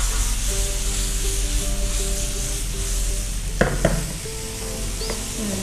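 Mutton and vegetable pieces frying in oil and spices in a wok, a steady sizzle, with a metal spatula knocking and scraping against the pan twice about three and a half seconds in as the food is stirred.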